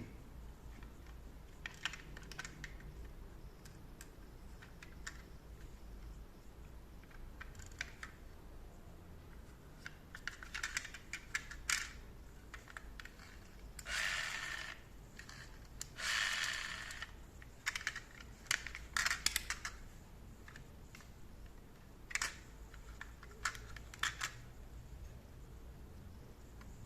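Small plastic toy cars being handled: scattered light clicks and taps, with two longer scraping rustles about halfway through.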